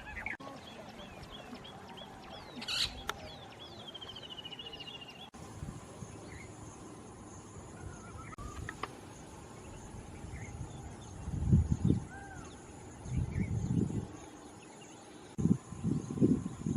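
Wild birds calling: a run of short high chirps and a rapid trill in the first few seconds, then scattered faint calls over a steady high hum. Several loud low rumbling bursts come in the last few seconds.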